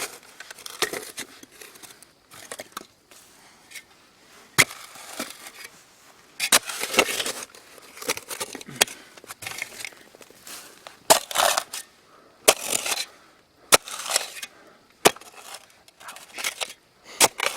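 Steel shovel blade striking and scraping into rocky shale soil while digging a post hole: irregular sharp clanks and gritty scrapes every second or two, including blows against rock.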